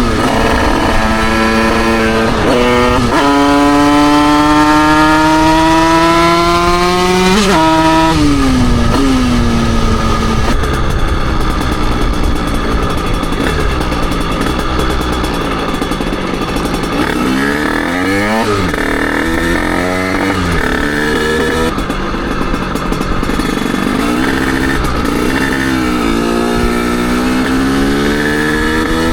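Derbi Senda 88cc two-stroke motorcycle engine, heard from on the bike: it drops in pitch about three seconds in, as at a gear change, then climbs steadily in revs until about seven seconds before falling away as the throttle closes. It then runs rough and low for a while, rises and falls briefly around eighteen seconds, and climbs again near the end.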